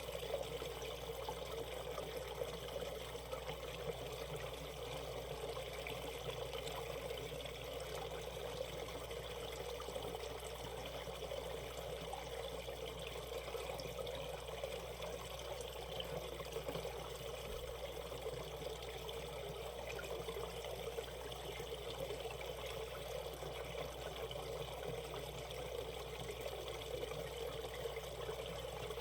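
Valley stream water flowing and trickling over rocks, a steady continuous babble.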